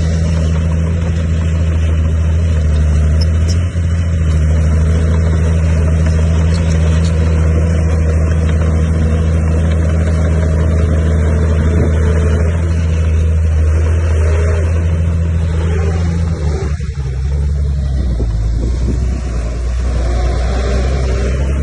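Heavy diesel engine of an earthmoving machine running steadily at working speed. Its pitch drops about seventeen seconds in.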